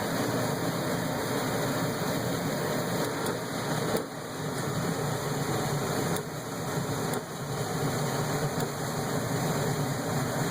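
Furnace running with a steady mechanical rush and low hum.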